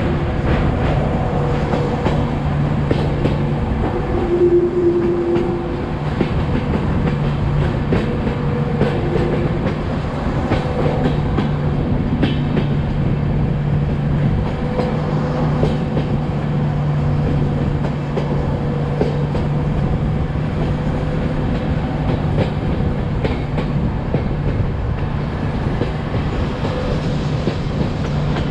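Express passenger train running along the track, heard from on board: a steady rumble and hum, with wheels clicking over rail joints now and then.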